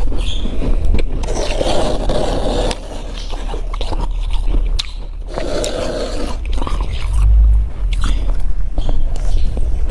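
Crunchy freezer frost being scraped by hand and bitten: a run of crisp crackles, with two longer rasping scrapes about a second in and again about five seconds in.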